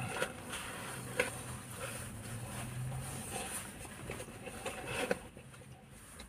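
Quiet eating from a takeaway kebab box: a few soft clicks and rustles, one about a second in and another near five seconds, over a faint low hum.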